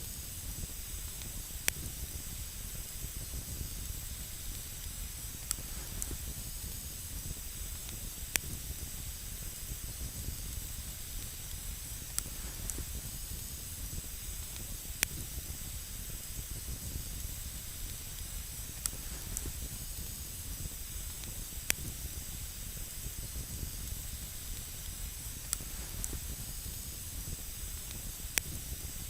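Wood campfire burning, with sharp crackles and pops every second or two over a steady hiss.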